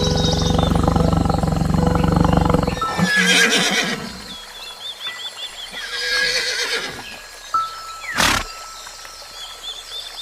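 Large animal calls over soft background music: one long low call, then two shorter, noisier calls and a single sharp click near the end.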